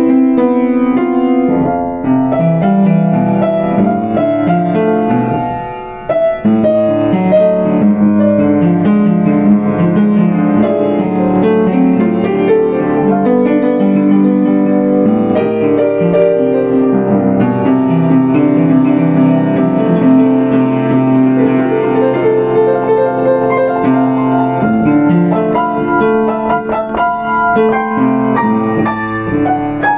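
Yamaha U5 upright acoustic piano played solo, a melody over chords, softening briefly about six seconds in before playing on.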